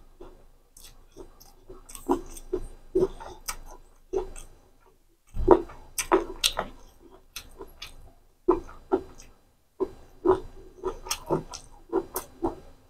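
Close-miked wet chewing and lip-smacking of rice and chicken liver curry, with the squelch of fingers mixing rice and gravy on a steel plate. Irregular smacks come several times a second, with a couple of short lulls.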